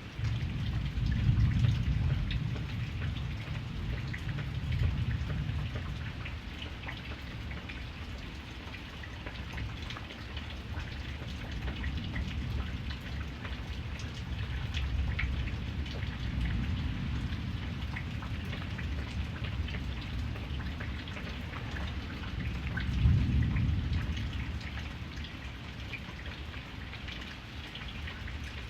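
Steady rain, with many small drop ticks, and low rolls of thunder that swell and fade several times. The strongest roll comes just after the start and another about 23 seconds in.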